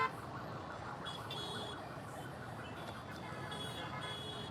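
Gridlocked street traffic running steadily, with an electronic warbling alarm tone cutting through it and rising in pitch twice.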